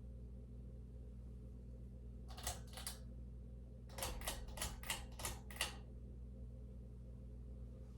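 Emerson Legend ceiling fan motor running with a steady low hum. A run of sharp clicks cuts across it: two about two and a half seconds in, then six evenly spaced ones a little later.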